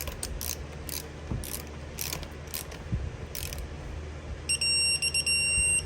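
Ratchet of a torque wrench clicking irregularly as an engine bolt is drawn down, then, about four and a half seconds in, a high electronic beep lasting over a second: the wrench signalling that the set torque of the first pass, 11 foot-pounds, has been reached.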